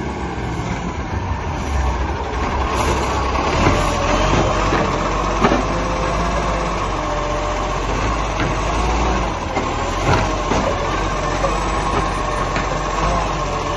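Garbage truck engine running steadily, with a whine over it that wavers in pitch and a few sharp knocks, the loudest about five and a half seconds in.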